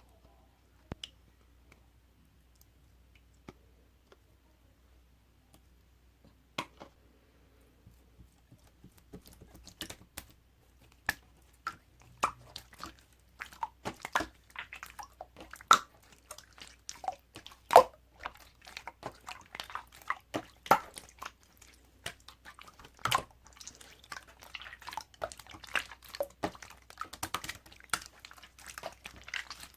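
Crunchy chewing and biting: a few scattered clicks at first, then from about nine seconds in a dense, irregular run of crisp crunches.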